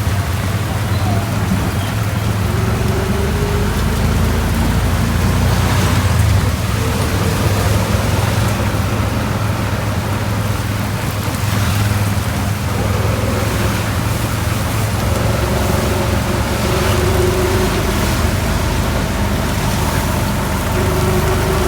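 Heavy rain falling steadily, an even hiss over a low rumble.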